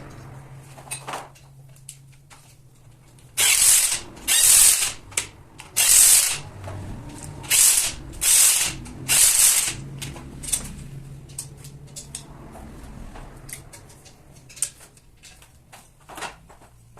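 Workshop tool work on a tractor cylinder head: a run of about seven short, loud, harsh strokes of noise in the middle, with scattered clicks and taps before and after and a faint low hum underneath.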